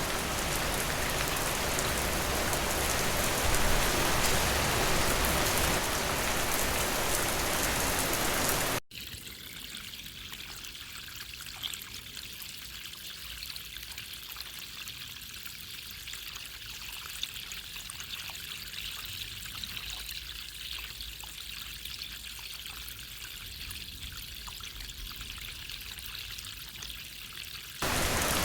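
Steady heavy rain that cuts off abruptly about nine seconds in, replaced by a much quieter, thinner trickle of water with scattered small drips; the heavy rain cuts back in just before the end.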